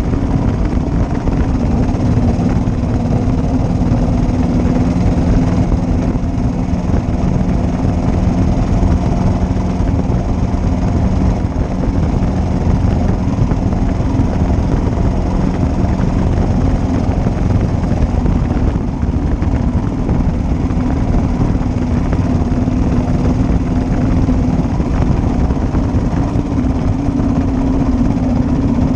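1941 Matchless G3L's single-cylinder four-stroke engine running under way at a fairly steady speed, with its pitch shifting only slightly.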